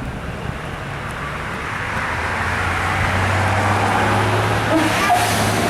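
An engine running with a steady low hum and a rush of noise, growing louder from about two seconds in.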